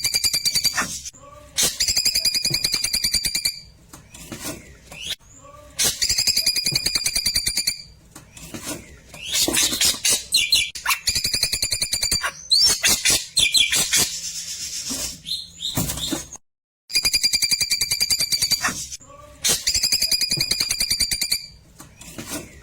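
Klewer bird song: loud, rapid pulsing trills about one to two seconds long, repeated again and again with short pauses between them, in the bursts that bird keepers call 'tembakan'.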